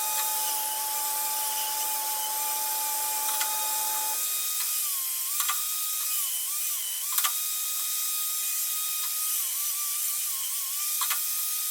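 Angle grinder running steadily while grinding a fishmouth into the end of a steel tube. Its whine dips in pitch each time it is pressed into the metal, with scattered sharp clicks.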